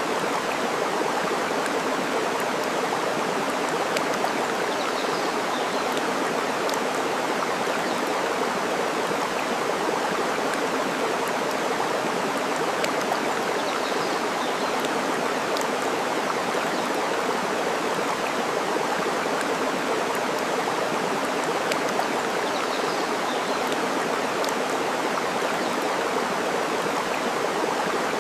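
Steady rush of flowing water, with a few faint sharp crackles from a wood fire and a few faint bird chirps now and then.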